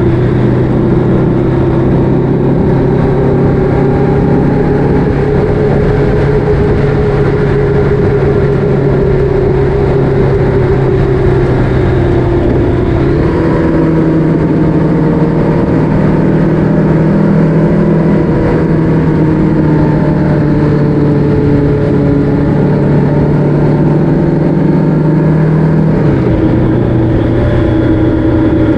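Motorcycle engine running steadily on the road, over a constant rushing noise. The engine note steps up about halfway through and drops back down near the end.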